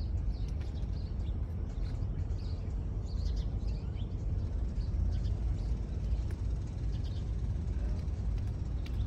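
Steady low rumble outdoors, with many short, faint bird chirps scattered over it.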